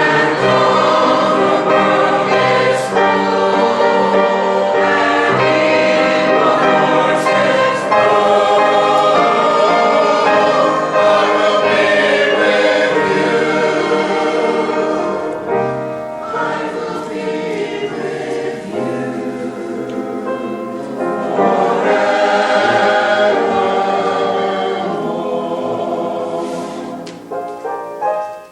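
Choir singing a piece from a sacred cantata, full-voiced through the first half, then softer, and dying away near the end.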